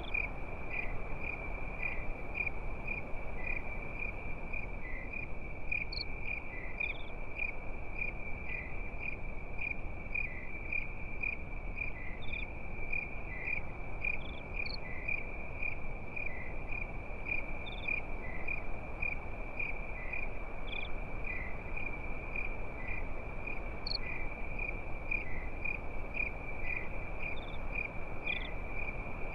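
Crickets chirping at night in a steady, even rhythm of a few chirps a second, with a scattered higher chirp from another insect now and then over a low steady hiss.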